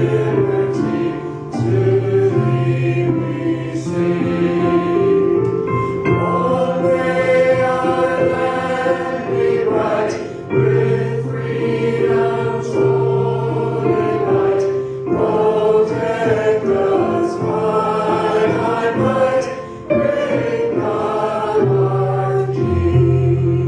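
Church choir singing a gospel worship song over instrumental accompaniment with long held bass notes.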